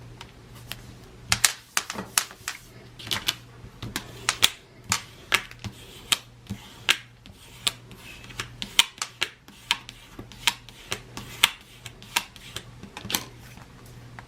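Irregular sharp clicks and taps, about one or two a second, from hand tools and materials being worked at a craft table.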